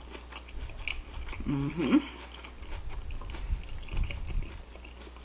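A person chewing food close to the microphone, with soft wet clicks and smacks of the mouth and a short hum of the voice about a second and a half in.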